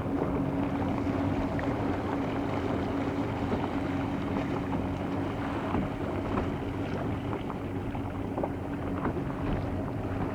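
A boat's engine running steadily, with a constant hum under wind and water noise.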